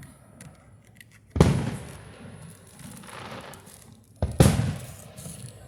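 Aerial firework shells bursting: two loud booms, one about a second and a half in and another near the end, each trailing off in a rumble, with fainter pops and crackles between.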